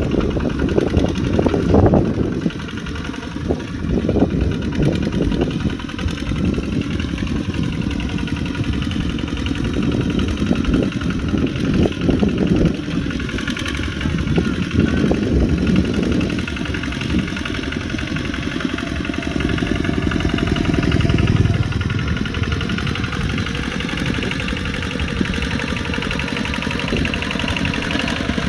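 Kubota RT140 Plus single-cylinder diesel engine of a tractor running steadily, its sound swelling and easing a little.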